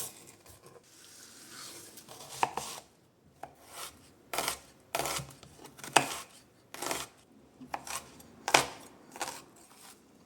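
About a dozen sharp knocks and clicks at irregular intervals, the sound of objects being handled and set down.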